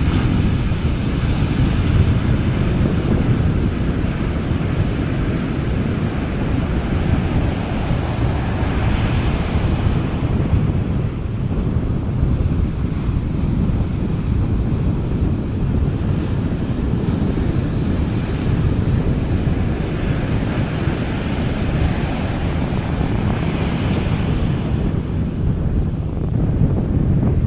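Gentle sea waves washing onto a beach in a steady hiss that swells softly every several seconds, with a low rumble of wind on the microphone.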